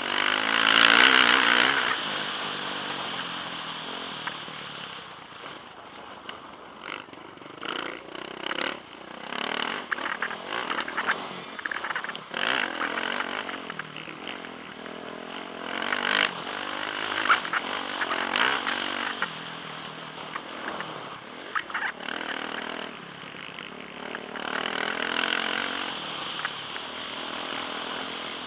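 Motocross bike engine heard through a helmet camera, revving up hard and easing off over and over as the rider accelerates and shuts off, loudest about a second in. Knocks and rattles from rough ground run through it.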